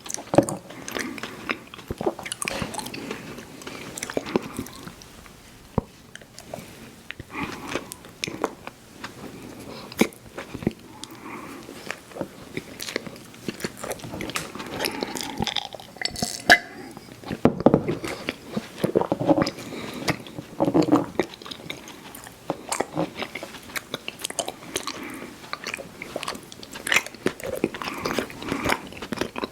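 Close-miked chewing of chewy fruit candy: wet smacking of lips and tongue with many sharp clicks.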